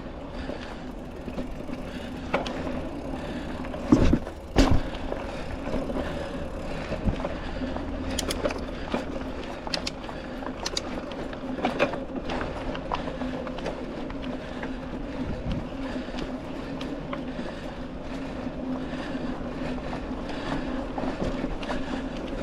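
Mountain bike ridden along a dirt trail on tubeless tires: a steady rolling hum and rattle from the bike, with two hard knocks about four seconds in as it hits bumps.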